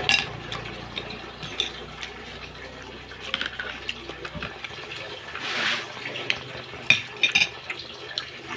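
Close-up wet chewing and mouth sounds of a person eating crab and rice, with sharp clicks scattered through, among them a metal spoon tapping the plate.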